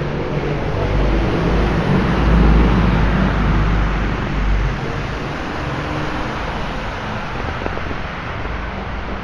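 A motor vehicle passes close by on a wet road, its low engine rumble and tyre hiss swelling to a peak about two seconds in and fading after about four and a half seconds, over steady wet-traffic hiss.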